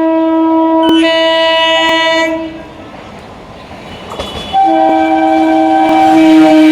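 Indian electric train horns: a long blast, joined by a second, higher-pitched horn for about a second and a half, then a pause of about two seconds filled with the running noise of the train, then another long blast starting about two-thirds of the way in.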